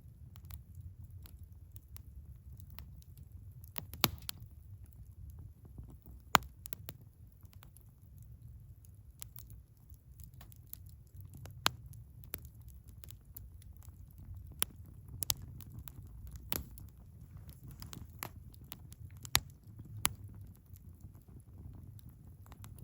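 Wood fire burning with a low steady rumble and irregular sharp crackles and pops, half a dozen of them much louder than the rest.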